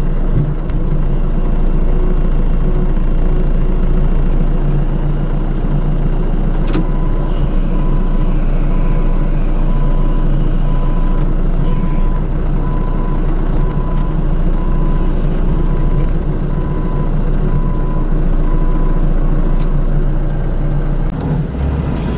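Forklift engine running steadily under load. From about six seconds in, its reversing alarm beeps at a steady, even rate.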